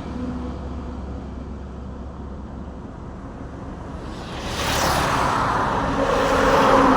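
Road traffic with a steady low engine rumble; about four and a half seconds in a vehicle rushes past, and near the end a horn starts to sound and grows louder.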